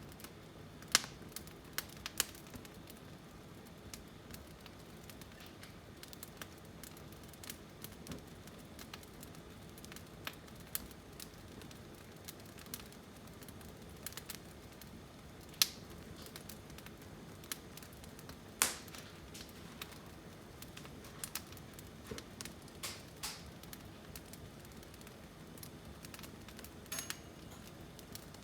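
Firewood burning, crackling with irregular sharp pops, a few of them loud.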